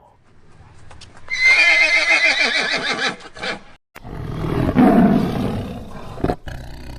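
A horse whinnying once, a high wavering call that falls in pitch over about two seconds. After a sudden break comes a low, rough animal call.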